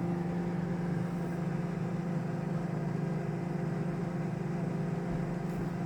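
Sharp microwave oven running on its one-minute quick start after Start was pressed: a steady low hum.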